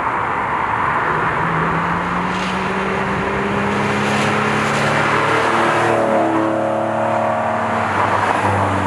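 A car engine under acceleration, its pitch rising slowly for several seconds, with higher tones climbing faster in the last few seconds.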